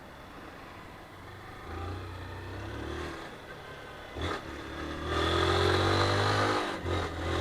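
Honda CG 160 Fan single-cylinder motorcycle engine running at low speed, then getting louder and rising in pitch as it accelerates from about five seconds in, with a short knock just before.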